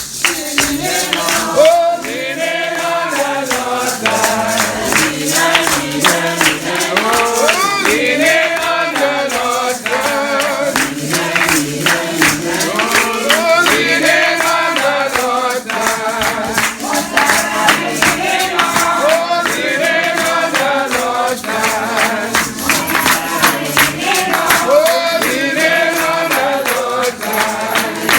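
A congregation singing a hymn together in many voices, over a steady percussive beat.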